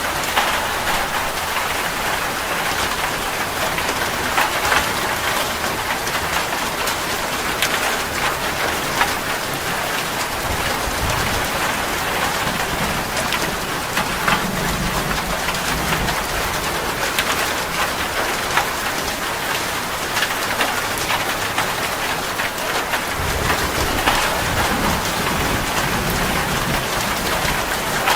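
Steady heavy rain falling on a tree branch, with sharp drop ticks throughout. Low rumbles of distant thunder come twice, about a third of the way in and again past the middle.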